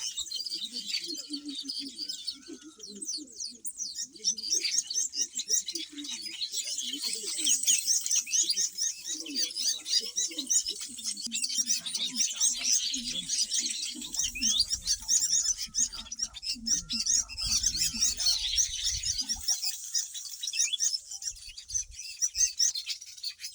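Weaver bird colony chattering: a dense, continuous run of rapid, overlapping high chirps.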